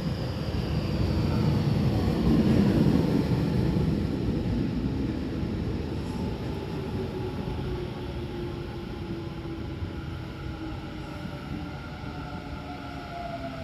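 Tobu Tojo Line electric train's motors whining, several tones falling steadily in pitch over rumbling wheels as the train brakes into the station. The sound is loudest a couple of seconds in, then fades while the whine keeps dropping.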